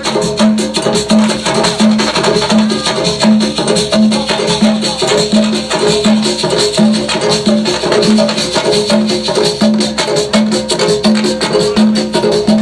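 Percussion-led music: shakers and sharp wood-block-like clicks in a dense, even rhythm over a low note that repeats about every two-thirds of a second.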